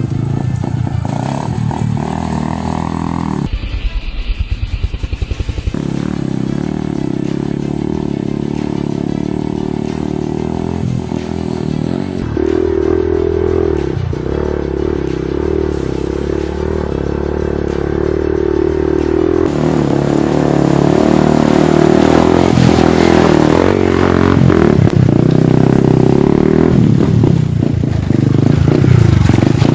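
Yamaha R15 dirt-bike conversion's single-cylinder engine running and revving up and down as it is ridden, growing louder in the second half.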